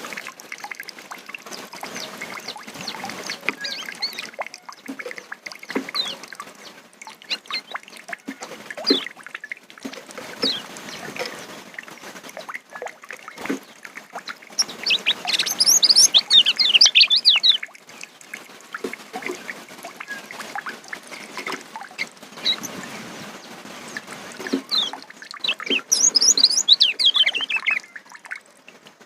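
Kecial songbird singing: scattered short high chirps, with two loud runs of rapid, falling notes, one about midway and one near the end.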